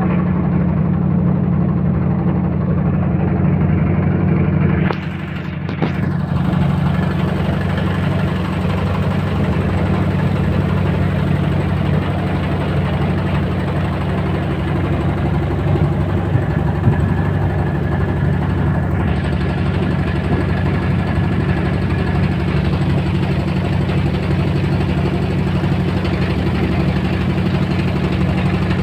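River boat's engine running steadily with a low, even drone. It dips briefly in level about five seconds in.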